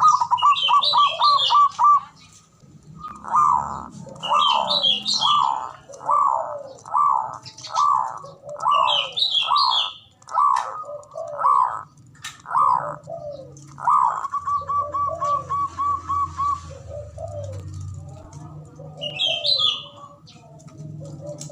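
Zebra doves (perkutut) cooing: a quick stuttering run of notes, then a series of falling coos about one and a half a second, then a fast trill, with softer, lower coos near the end. Short bursts of high chirping come in between.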